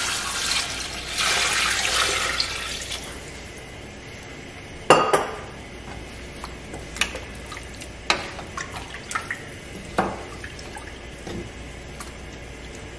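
Fresh coconut juice poured in a splashing stream into a large aluminium stockpot of browned oxtail for about three seconds. Then a wooden spoon stirs the meat and knocks against the pot several times, the loudest knock about five seconds in.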